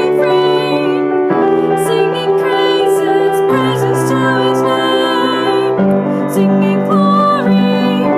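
A female voice singing a slow song over piano accompaniment, with held chords changing every second or two.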